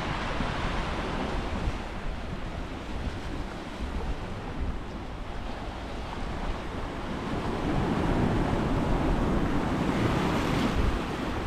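Sea waves surging and breaking against a rocky shore, growing louder about two-thirds of the way through, with wind buffeting the microphone.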